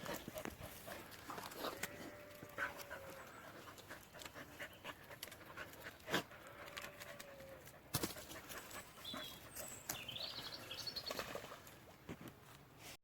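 Australian Cattle Dogs panting faintly, with scattered light clicks and rustles.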